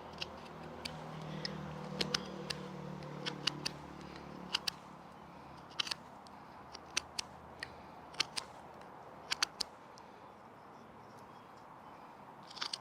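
Swiss Army knife blade whittling a wooden stick: a dozen or so short, sharp cutting strokes at an uneven pace as shavings are taken off to shape a wedge. A faint low drone fades out over the first few seconds.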